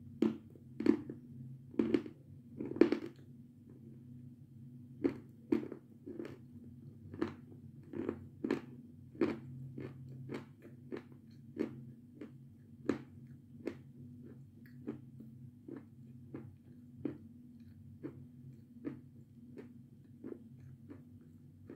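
A person chewing crunchy food close to the microphone: a few loud crisp bites in the first three seconds, then steady crunching at about one to two crunches a second that grows fainter, over a low steady hum.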